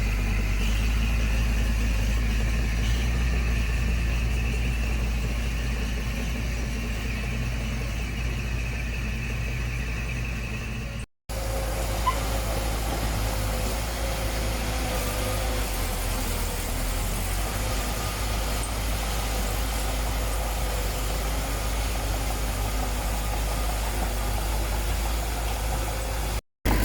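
Construction machine's diesel engine running steadily. The sound drops out completely for a moment twice, about eleven seconds in and near the end, where the footage is cut.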